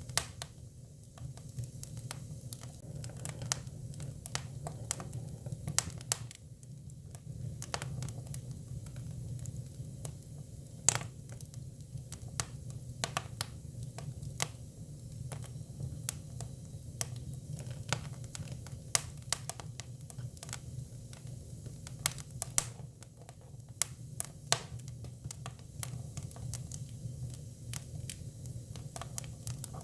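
Hinoki cypress firewood burning: a steady low rumble of flames with irregular sharp crackles and pops, a few of them louder snaps.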